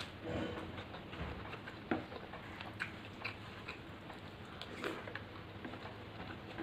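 A person chewing a mouthful of rice and fish curry, with wet mouth smacks and small clicks at irregular intervals.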